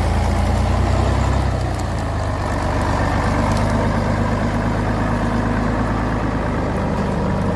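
Heavy truck engine running steadily and loudly, a little stronger for the first two seconds and then holding level.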